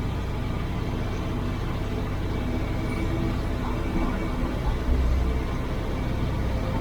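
IFA L60 truck's diesel engine running under way, heard from inside the cab, a steady low drone that swells briefly about five seconds in.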